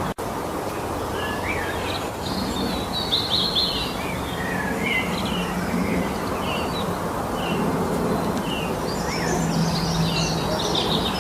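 Several songbirds singing in spring woodland: short chirps and quick trills from more than one bird, over a steady rushing background noise. The sound cuts out for an instant just after the start.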